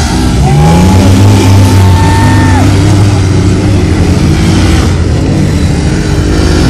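Engines of off-road race vehicles running hard under a steady low drone, with engine notes rising as they rev. A high whine rises about half a second in, holds for about two seconds, then drops away.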